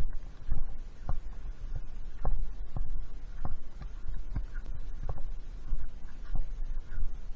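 Footsteps on a woodland trail, a step about every half second to under a second, over a steady low rumble.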